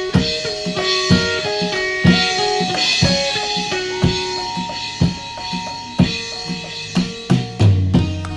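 Live instrumental jam on drum kit, synth and electric guitar: a repeating pattern of stepping melodic notes over drum hits about once a second, the hits coming closer together and a low bass note entering near the end.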